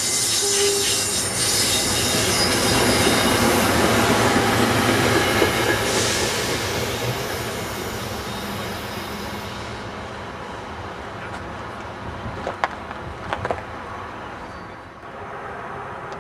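SEPTA Silverliner electric multiple-unit train passing close by on the rails and then pulling away, its wheel and rail noise loud at first and fading over the second half. A last short horn note sounds just after the start, and a few sharp clicks come near the end.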